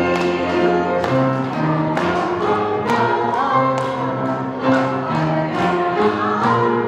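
Women's vocal ensemble singing in parts with instrumental accompaniment, chords struck about once a second under held, wavering vocal notes.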